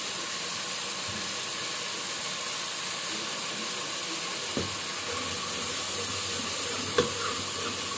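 Onion-and-spice masala sizzling in hot oil in an aluminium pot as it is being fried down, a steady hiss. A steel ladle knocks against the pot twice, about halfway through and again near the end.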